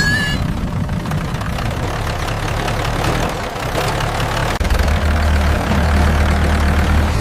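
Small tractor engine running steadily, a heavier, deeper hum setting in after a brief dip about halfway through. A short rising chirp sounds right at the start.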